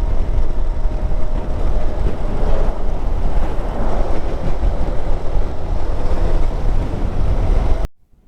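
Wind buffeting a motorcycle rider's camera microphone while riding, with a steady low rumble of engine and road noise beneath it. The sound cuts out abruptly near the end.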